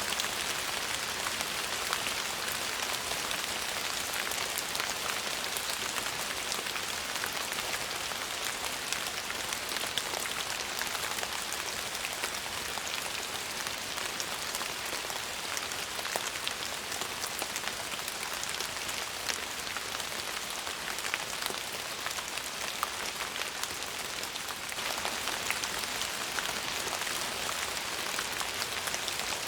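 Steady rain falling on a surface, an even hiss with many fine individual drop ticks.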